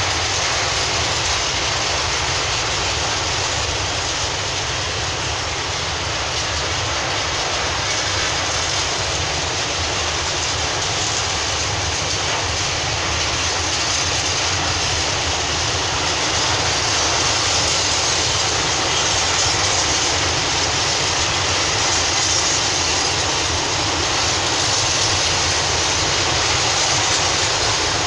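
Long freight train of empty open coal wagons rolling past on the rails, pulling away after a short stop: a steady noise of wheels on track, slightly louder in the second half as it gathers speed.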